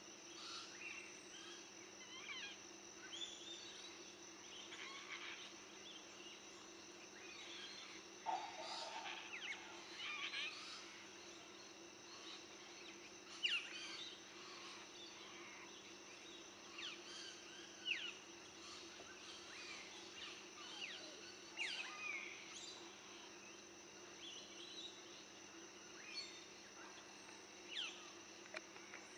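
Birds calling in short, scattered chirps and whistles over a faint, steady outdoor background hum.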